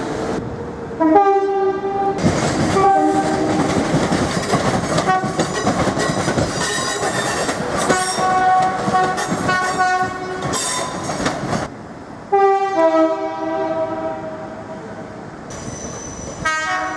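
British train horns sounding in a string of short blasts, several of them two-note, with a longer blast about two-thirds of the way through, over the rumble and clatter of passing trains. The background changes abruptly several times: separate clips cut together.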